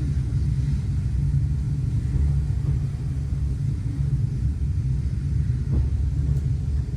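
Steady low rumble of a heritage railway passenger coach on the move, its wheels running along the track, heard from inside the coach.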